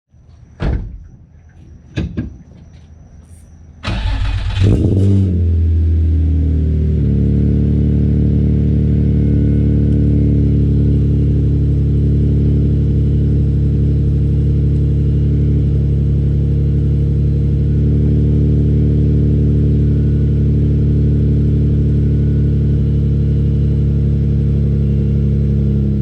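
Two short knocks, then a supercharged Nissan 350Z's 3.5-litre VQ V6 cranks and starts about four seconds in. It flares up briefly, then settles into a steady idle through Berk non-resonated test pipes and an ISR single-exit exhaust.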